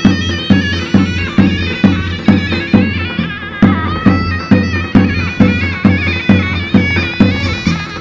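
Turkish folk dance music: a shrill, ornamented double-reed melody, in the manner of a zurna, over a steady big-drum beat about twice a second.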